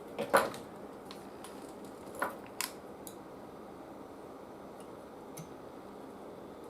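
A few short clicks and snips of small hand tools working on the TV chassis wiring: a sharp one just after the start, two more a little after two seconds in and a faint one near the end.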